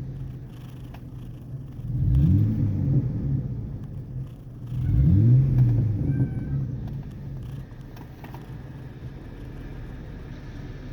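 Muffler-deleted 4.0L V6 of a 2003 Ford Ranger, with its catalytic converters still on, accelerating hard twice, its exhaust note rising in pitch about two seconds in and again about five seconds in, then settling to a steadier, quieter drone while cruising. Heard from inside the cab with the windows up.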